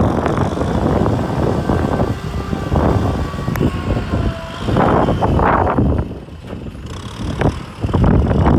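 Kubota M6040 tractor's diesel engine running with a rough, noisy rumble that surges in level; it drops away for a couple of seconds about six seconds in, then comes back loud.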